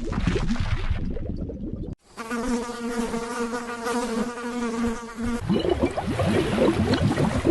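A flying insect buzzing steadily at one pitch for about three seconds, set between shorter stretches of rustling noise.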